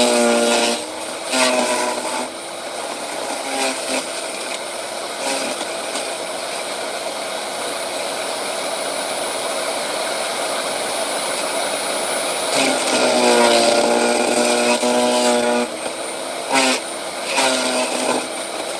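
Electric wood chipper running and chipping wood: a steady mechanical noise whose motor note shifts in spells, near the start and again about two-thirds of the way through, with sharp cracks near the end.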